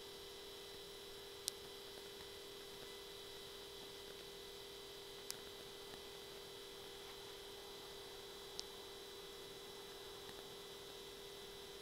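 A faint steady hum made of a couple of held tones, with three short sharp clicks spread across it.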